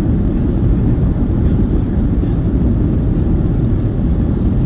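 Steady low rumble of engine and airflow noise inside the cabin of a Southwest Boeing 737-700 with CFM56-7B engines, departing and climbing out.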